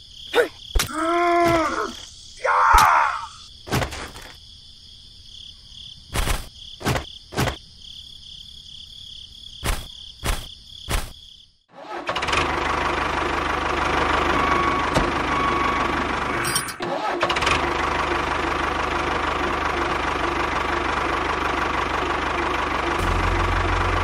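Insect-like chirring with two short squeaky calls and a scatter of sharp clicks, then about halfway through a tractor engine sound starts up and runs steadily at a constant pace.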